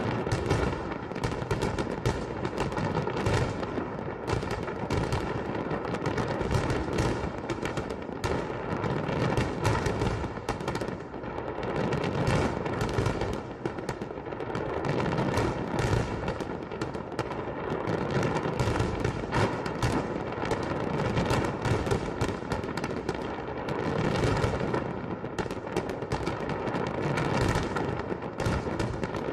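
Festive fireworks salute: many bangs in quick succession with no break.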